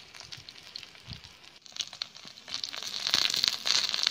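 Masala-coated raw banana slices sizzling and crackling in oil on a flat iron pan over a wood fire. The sizzle is faint at first and gets much louder about halfway through.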